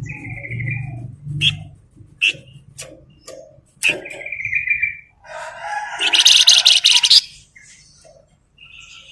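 Songbird known in Indonesian bird-keeping as a flamboyan singing in a lively, full-voiced way: scattered sharp chirps and short buzzy whistled notes, then a loud, fast rattling trill about six seconds in.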